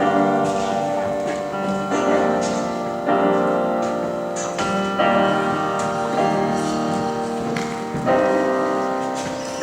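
Piano music: slow, ringing chords, a new one struck about once a second.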